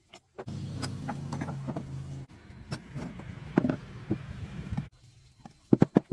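A small electric motor hums steadily for about four seconds amid scattered clicks and knocks. It stops, and a few sharp clicks follow near the end.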